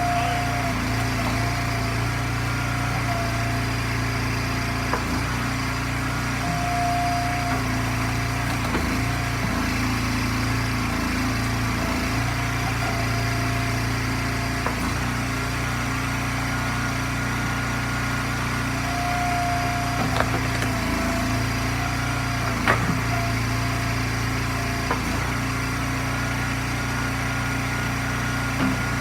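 Eastonmade log splitter's gas engine running steadily, its note dipping briefly now and then, with a few sharp knocks near the end.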